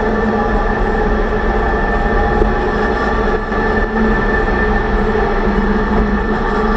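A 2006 Range Rover Sport's rebuilt differential and drivetrain giving a steady whine over a low rumble, holding an even pitch at a steady speed. The owner finds it too loud and suspects he set the pinion bearing preload too tight.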